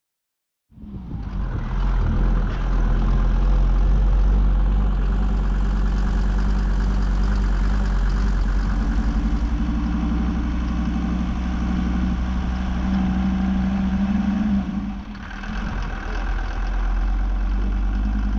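An ARO 4x4's engine running steadily, starting abruptly under a second in, with a brief drop in level about fifteen seconds in.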